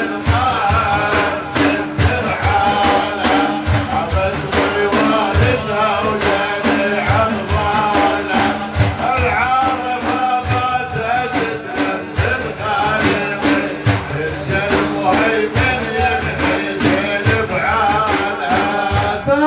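Devotional Sufi music: frame drums beat a steady, dense rhythm under a wavering melodic line between sung verses.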